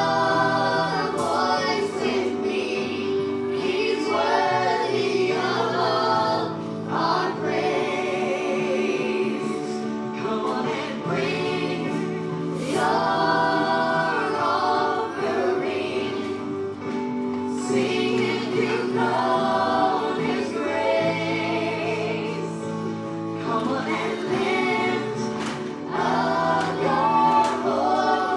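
Worship music: a choir singing a gospel song in phrases of a few seconds each, over sustained accompanying chords.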